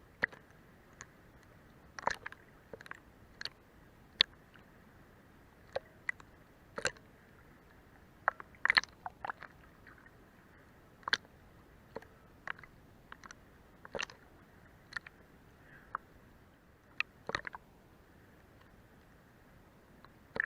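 Sea water lapping and slapping against a boat's hull underneath it: irregular short wet clicks and splashes, some in quick clusters, over a faint steady wash.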